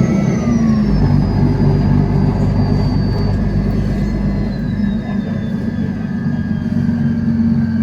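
Mercedes-Benz city bus engine running, with a steady low drone and a thin high whine that falls slowly in pitch.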